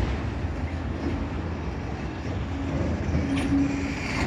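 Freight train cars rolling past: a steady rumble of steel wheels on the rails with faint clicks.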